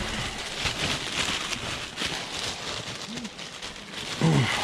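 Plastic trash bags and packaged goods rustling and crinkling as they are handled and rummaged through, with a continuous crackle of small clicks. A short pitched sound comes near the end.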